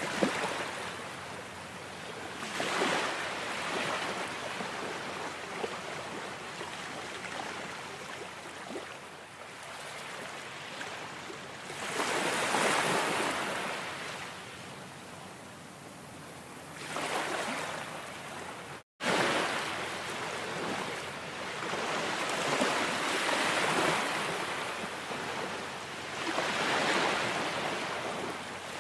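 Ocean surf: waves breaking and washing in, swelling and easing again every several seconds. The sound cuts out completely for an instant about two-thirds of the way through.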